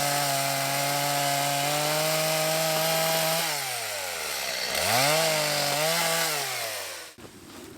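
Chainsaw held at high revs, clearing an obstruction on the way in. The revs drop away about three and a half seconds in, pick up once more and fall again, and the engine stops near the end.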